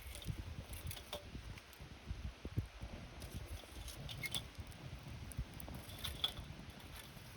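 Campfire crackling, with scattered sharp pops and ticks from the burning wood over a low, uneven rumble.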